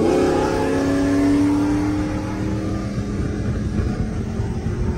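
A vehicle's engine under acceleration, heard from inside the cabin. Its pitch rises briefly, then eases slowly down over about two and a half seconds and gives way to steady road and wind noise.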